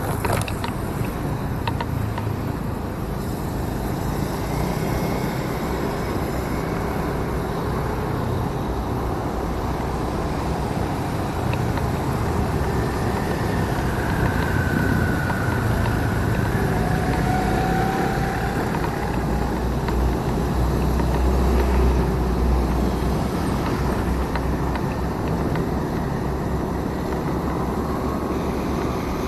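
Motorcycle on the move, recorded from the rider's first-person camera: a steady rumble of engine, road and wind on the microphone, with a couple of faint gliding tones from traffic about halfway through.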